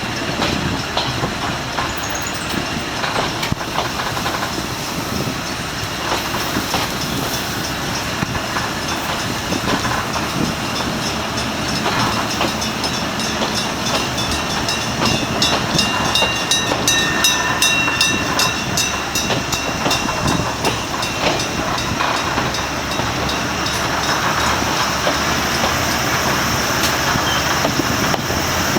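A Kominato Railway diesel train passing over a level crossing, loudest around the middle, where a run of evenly spaced clicks from the wheels crossing rail joints stands out.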